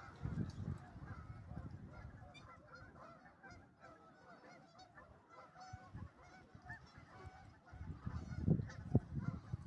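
A flock of waterfowl squawking, many short overlapping calls in a busy chorus. A few low thumps come in near the end.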